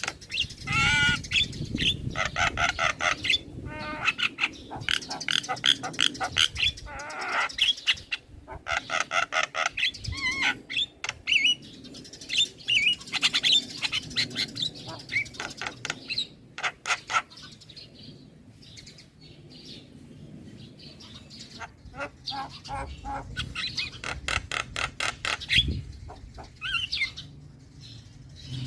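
Young male Javan myna singing in rapid bursts: fast runs of clicking, chattering notes, trills and short whistles, broken by brief pauses.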